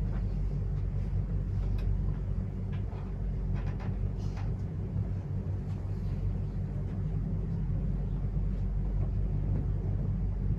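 A steady low rumble with a droning hum underneath.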